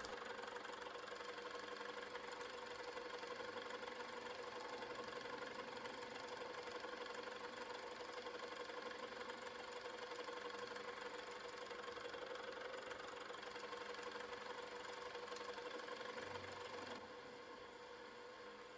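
Milling machine running steadily while cutting a slot in a small steam-engine counterweight, a continuous mechanical hum with a steady whine. It drops in level near the end.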